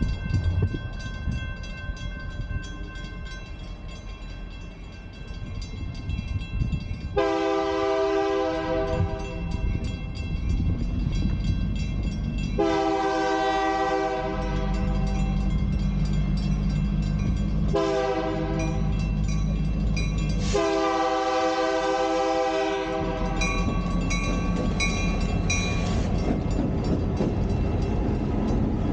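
Freight locomotive horn sounding the grade-crossing signal, two long blasts, a short one and a long one, over the steady ringing of a railroad crossing bell. The locomotive and train cars rumble loudly past from about halfway through.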